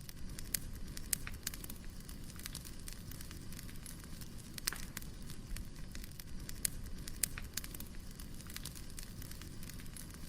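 Firewood burning: a steady low rumble of the fire with irregular sharp crackles and pops scattered throughout.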